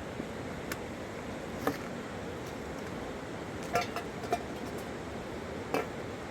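Steady rushing of a flooded river, with a handful of short, sharp clinks or knocks scattered through it, the loudest about four and six seconds in.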